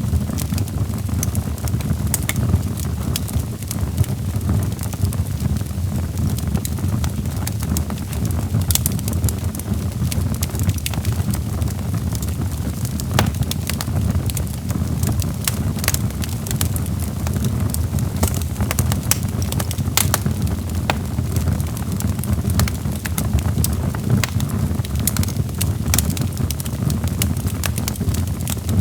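Wood fire burning in a fireplace: a steady low rumble of flames with frequent sharp crackles and pops from the burning logs scattered throughout.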